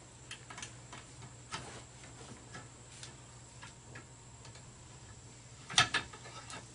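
Scattered light clicks and knocks of clips, wires and metal parts being unhooked and handled, with a louder double clack near the end.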